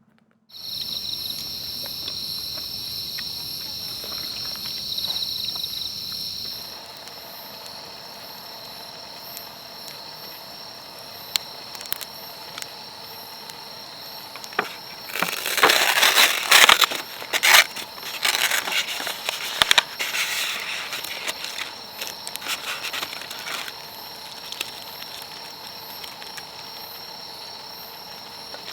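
Insects chirping in a steady outdoor chorus. About halfway through comes a run of loud, irregular clicks and rustles lasting several seconds.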